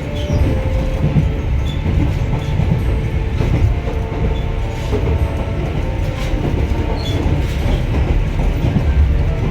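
Narrow-gauge (762 mm) electric train of the Sangi Railway Hokusei Line running between stations, heard from inside the car: a steady low rumble of the running gear with wheels clattering over the rail joints and a faint whine from the motors or wheels.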